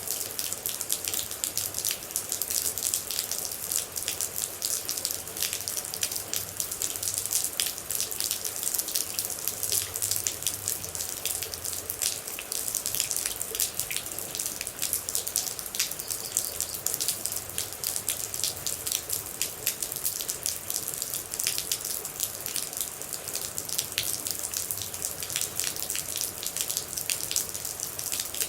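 Rain falling as a dense, steady patter of water droplets.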